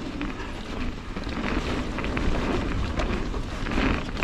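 A mountain bike riding down a dirt trail at speed. Wind buffets the microphone over a steady tyre rumble, with scattered clicks and knocks from the bike rattling over bumps.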